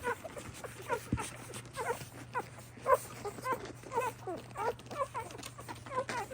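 Newborn mini Bernedoodle puppies squeaking and whimpering while nursing, many short, high, falling cries overlapping several times a second.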